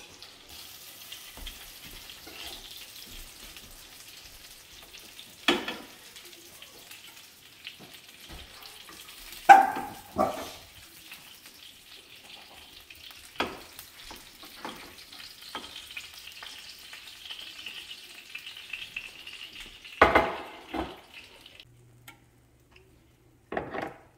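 Chicken patties sizzling in oil in a frying pan: a steady hiss, broken by several sharp knocks of the spatula against the pan and plate as the patties are lifted out. The sizzle stops near the end.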